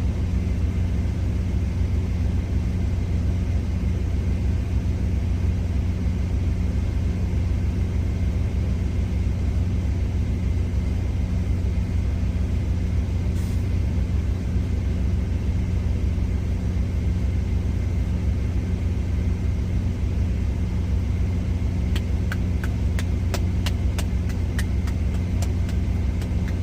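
Steady low hum of a parked semi truck's engine idling. A run of quick clicks comes near the end.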